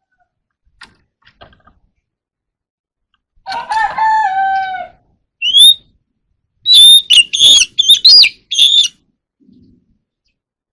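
Oriental magpie-robin singing: a single rising whistle, then a quick run of loud, sharp whistled notes. Just before, a longer, lower call with many overtones runs for about a second and a half.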